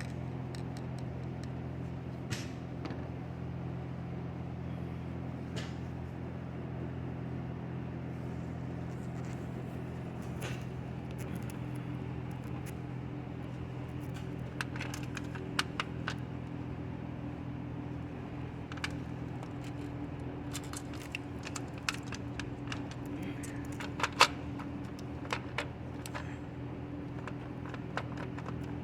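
Ford F-150 engine idling steadily, with scattered light metallic clicks and clinks over it.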